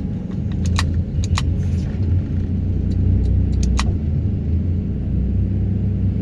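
Heavy excavator running under load, a steady deep rumble, with a few sharp metallic clicks about a second in and again near four seconds.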